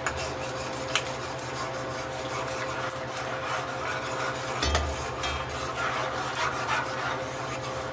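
Chicken sizzling in caramelized brown sugar in a pot while it is stirred, with a spoon scraping and clicking against the pot now and then.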